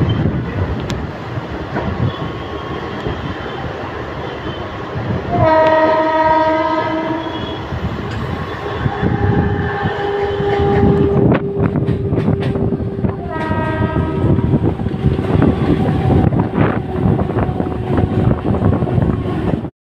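Mumbai suburban electric multiple-unit local train running with a steady rumble and sounding its horn twice: a blast of about two seconds some five seconds in, and a shorter one about eight seconds later.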